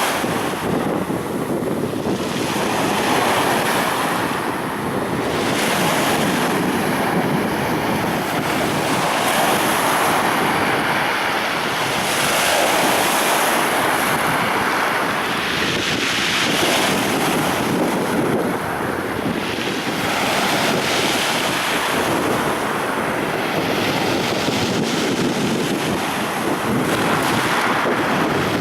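Sea waves breaking on the shore in a continuous surf, swelling and easing every few seconds, with wind buffeting the microphone.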